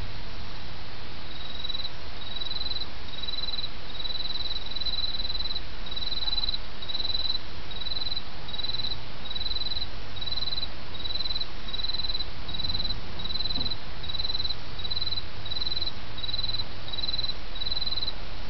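An autumn insect chirping: short, high chirps repeated evenly about one and a half times a second, starting about a second in. Under it runs the steady rush of a small stream.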